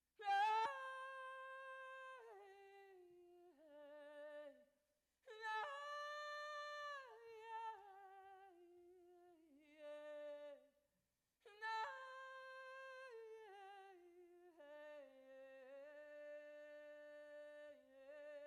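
A woman singing a wordless, humming-like lament in three long phrases, each opening on a high held note and stepping down through wavering notes, with short breaths between phrases.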